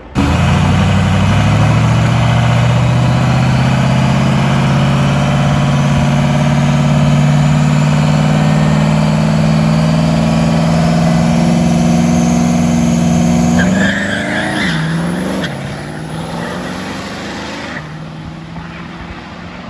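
Diesel truck engine pulling hard under sustained load, with a high whine climbing slowly in pitch over it. About fourteen seconds in the engine note drops and the sound goes quieter.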